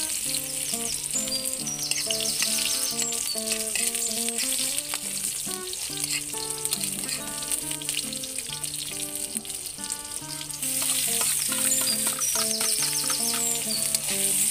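Chopped garlic sizzling in hot oil in an aluminium wok, stirred with a metal spoon. The sizzle grows louder about ten seconds in, as chopped onion goes into the pan. A background music melody plays throughout.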